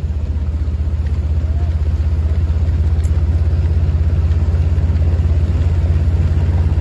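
Vehicle engine running steadily at low speed close to the microphone, a deep pulsing rumble that swells slightly in the first couple of seconds.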